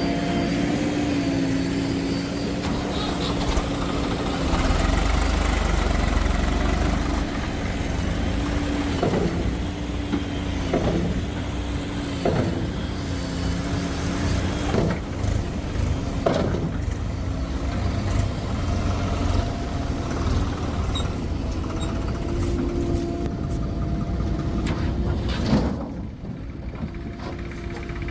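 Heavy diesel engine of soil-loading machinery (a JCB backhoe loader or a tractor) running steadily. Its pitch dips briefly about five times in the middle. A sharp knock comes near the end, and the engine is a little quieter after it.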